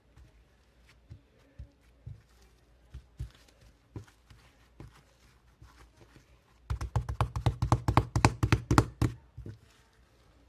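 Scattered soft taps and knocks, then a quick run of loud, rapid tapping, about ten taps a second, starting about seven seconds in and lasting some two and a half seconds.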